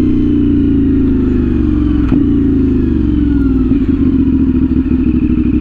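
CFMOTO 450SS parallel-twin engine through an aftermarket slip-on exhaust, revs falling steadily over about four seconds as the bike slows, with a sharp click about two seconds in, then running at a steadier, lower pitch.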